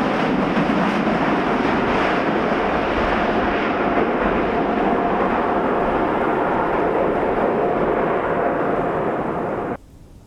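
Jet airliner's engines, a loud steady rush of noise with a thin whine through it, cutting off suddenly near the end.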